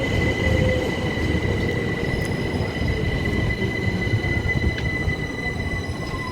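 Class 377 Electrostar electric multiple unit running through the platform, with a low rumble, a steady high-pitched squeal, and a lower electric whine that falls in pitch as the train slows.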